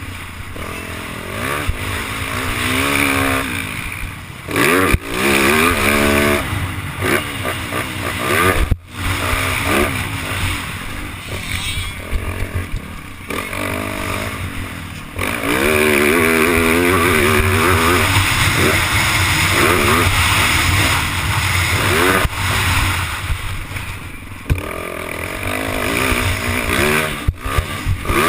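Yamaha YZ450F four-stroke single-cylinder dirt bike engine revving up and down again and again as the bike is ridden, under heavy wind noise on the on-board microphone. A few sharp knocks stand out.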